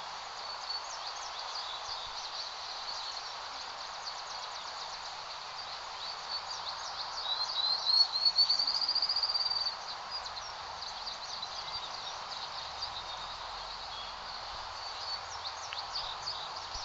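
Outdoor field ambience: a steady breeze hiss under many small high chirps. About halfway through, a bird gives a fast, rising trill, the loudest sound here.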